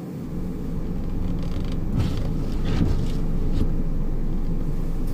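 Suzuki Solio Bandit being driven, heard from inside the cabin: a steady low road and drivetrain rumble that builds over the first second, with a few brief rustling noises midway and no clear whistling tone.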